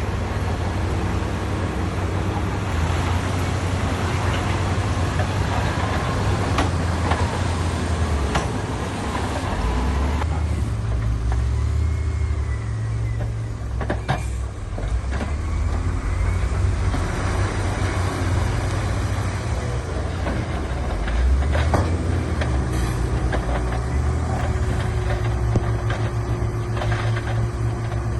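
Heavy construction machinery engines running steadily with a deep rumble, with a few sharp knocks now and then.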